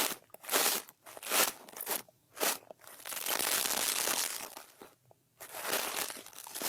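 A brush sweeping across an ASMR microphone, giving scratchy, crinkling strokes: four short strokes in the first couple of seconds, then two longer continuous sweeps.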